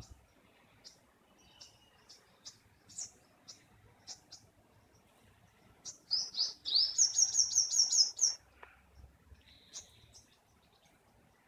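Bird chirping: short single high chirps every half second or so, then a loud quick run of about eight repeated chirps in the middle, followed by a few more scattered chirps.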